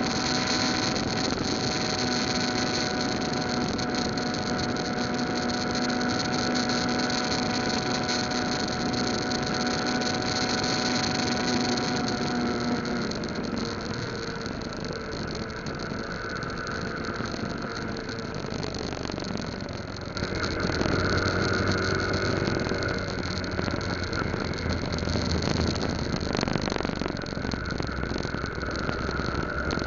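Yamaha Lagenda 115Z's single-cylinder four-stroke engine running under way on the highway, with wind and road noise. The note drops and quietens about halfway through as the bike eases off, then grows louder again a little after twenty seconds.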